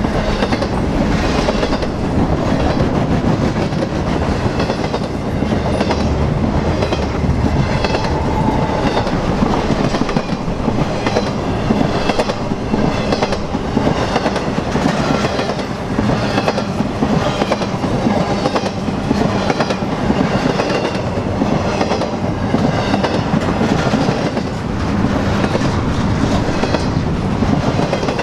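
A train's cars rolling steadily past, the wheels clacking over the rail joints in a regular rhythm.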